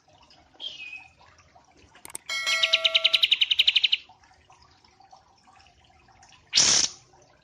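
Small songbird singing: a short falling whistle, then a loud, rapid trill of about a dozen notes a second lasting under two seconds. A brief rushing noise follows near the end.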